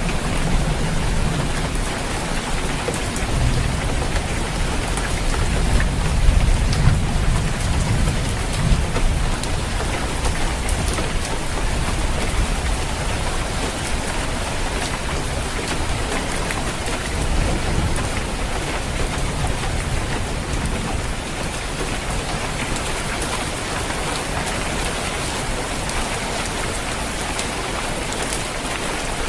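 Rain falling on a roof, a steady dense patter of drops. Low rolling rumbles of thunder run underneath for the first third, swell again briefly past the middle, then die away.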